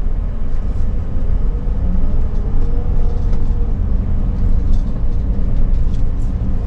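Steady low rumble of a vehicle's engine and road noise heard from inside the cab while driving, with a faint engine tone rising and falling briefly a few seconds in.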